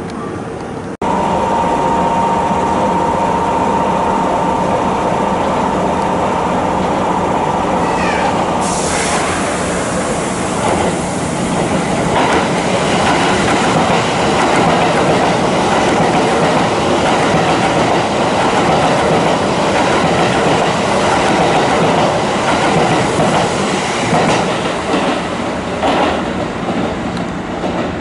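Kintetsu limited express train passing through a station at speed: a loud rush of wheels on rail with clickety-clack over the rail joints. It cuts in abruptly about a second in, with a steady high tone over the first several seconds.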